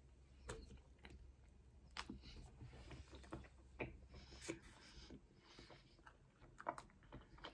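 Faint close-up chewing of pizza crust, with scattered soft mouth clicks and a sharper click near the end.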